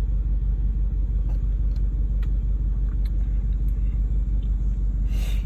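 Audi V8 with a customized exhaust idling: a steady, deep, even rumble. A few faint clicks and a short hiss come near the end.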